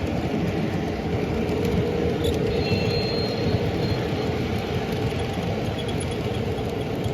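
Model train running on the layout track: a steady rumble of wheels and motor with a constant hum, and a faint high whine briefly about two and a half seconds in.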